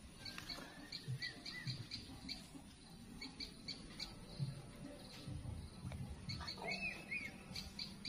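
Outdoor ambience of animal calls: runs of short high chirps, about four a second with pauses between runs, and two brief warbled bird calls, about one second in and near seven seconds. Low uneven rumbles lie underneath.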